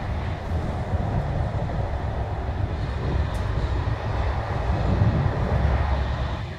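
Steady, loud low rumble of a TER regional train running along the track, heard from inside the carriage. The noise drops off sharply near the end.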